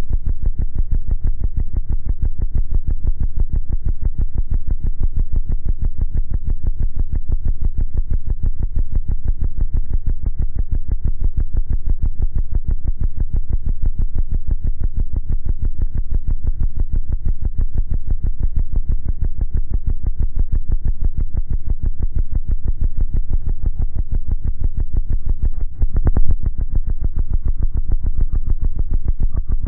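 Deep, synthesizer-driven bass music played loud through two 18-inch subwoofers, pulsing fast and evenly, with almost nothing in the treble. The bass briefly drops out near the end, then comes back with a louder hit.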